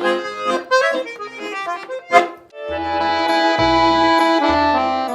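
Accordion playing a short folk phrase, then long held chords over low bass notes from about two and a half seconds in, with one sharp click just before the chords.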